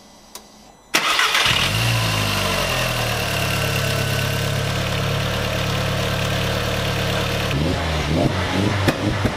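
Volkswagen Golf Mk4 1.8T (AUM) turbocharged four-cylinder engine starting about a second in, briefly flaring and then settling into a steady idle just after an oil catch can was fitted and a spare PCV T-piece port blanked off. Near the end the engine sound turns rougher and more uneven.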